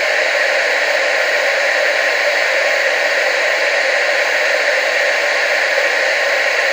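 Steady, unchanging television static hiss, strongest in the mid and upper range with little bass.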